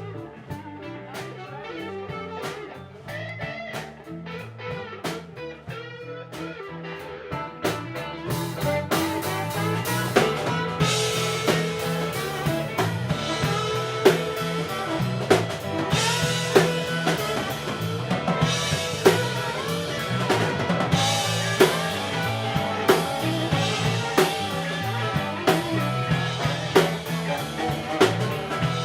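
Live band music with guitar and drum kit in a blues-rock style, no singing. It starts sparse and quieter, then fills out with steady drum hits and cymbals from about ten seconds in.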